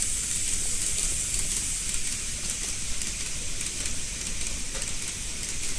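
Model railway freight train running on layout track: a steady high hiss of wheels and motor over a low rumble, with faint scattered ticks.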